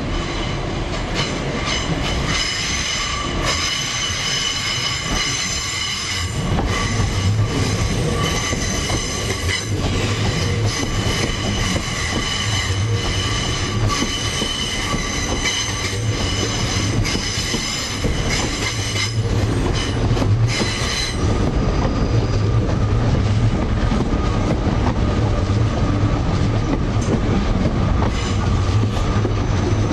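Class 458 Juniper electric multiple unit pulling slowly out on curved track, wheels squealing in several steady high tones, with clicks as the wheels cross rail joints. A low hum from the train grows louder about seven seconds in as the cars come alongside.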